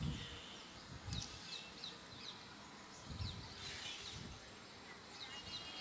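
Small birds chirping faintly in the background, in many short quick chirps. Now and then there are soft rustles and low bumps from fingers working through hair close to the microphone.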